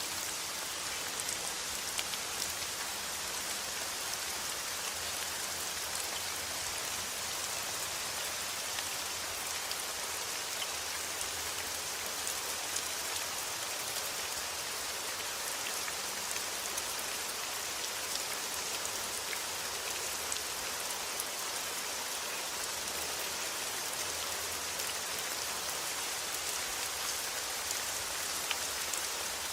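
Steady heavy rain hissing on a surface, with scattered individual drop ticks.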